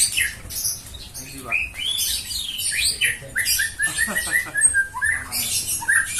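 Songbird singing a fast, varied song of whistled notes, quick rising and falling slurs and high chattering, with a rapid run of repeated notes about three and a half seconds in.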